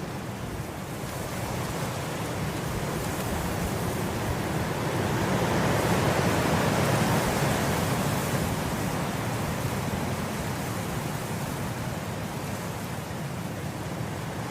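Wind blowing through grass, a steady rushing that builds into a gust about halfway through and then eases off.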